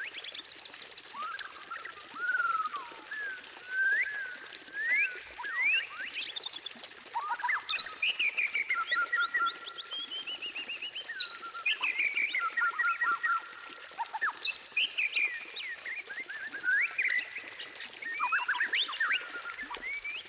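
White-rumped shama (murai batu) singing a long, varied song of clear whistles, rising and falling slurred notes and rapid trilled runs, with hardly a pause.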